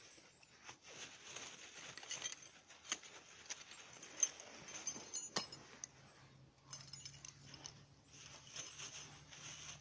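A fire steel being scraped to throw sparks, in several separate bursts of scraping with sharp metallic clicks and one louder click about five seconds in.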